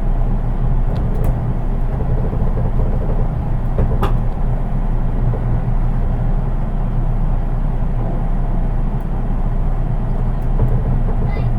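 Interior running noise of a JR East 183 series DC electric train, heard inside its unpowered Kuha 183 driving trailer car: a steady low rumble of wheels on rail. A single sharp click sounds about four seconds in.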